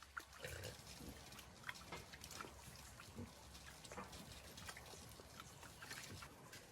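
Pigs grunting softly, with many short clicks and rustles scattered throughout.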